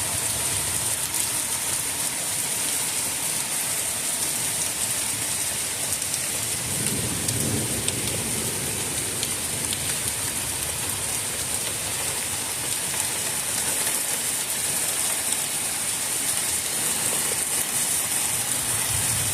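Heavy thunderstorm rain pouring down steadily, a dense even hiss of rain on surfaces. A low rumble swells and fades about seven seconds in.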